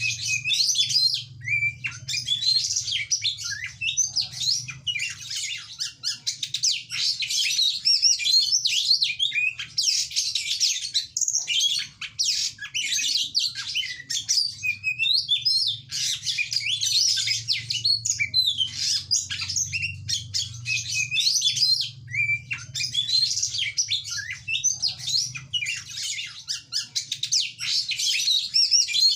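Oriental magpie-robin (kacer) singing a fast, continuous, varied song of high chirps and whistled notes, broken only by brief pauses.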